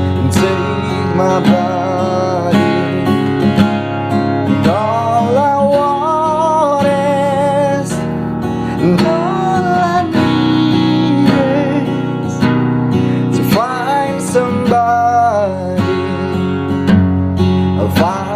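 Cowboy GW 240 NS acoustic guitar strummed continuously in chords, with a voice singing a drawn-out melody over it at times.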